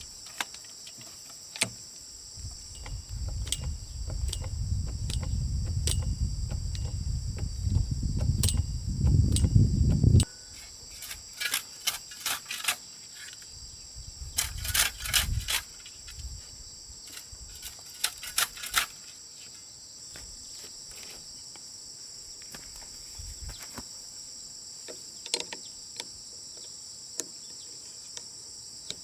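Crickets chirring steadily at a high pitch. Under them a low rumble builds from a few seconds in and stops suddenly about ten seconds in. After it come scattered sharp knocks and clicks.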